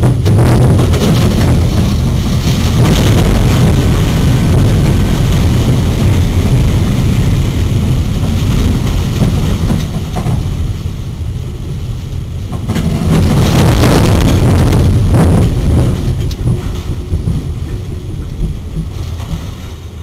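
Train rumbling loudly at close range. The noise eases a little about halfway through, swells again, then fades toward the end.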